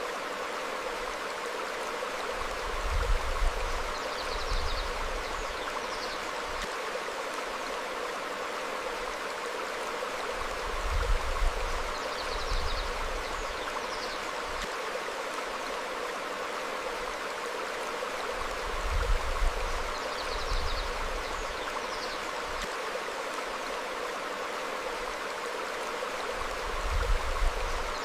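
Stream flowing over rocks, a steady rush of water, swelling with a low rumble about every eight seconds. Faint short bird chirps come now and then.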